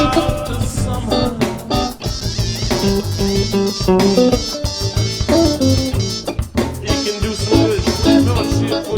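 Band playing improvised music: a plucked guitar line moving over bass, with regular drum hits.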